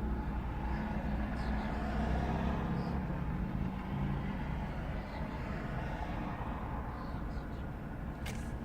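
Steady low rumble of a motor vehicle's engine running, with a hum that fades after about three seconds.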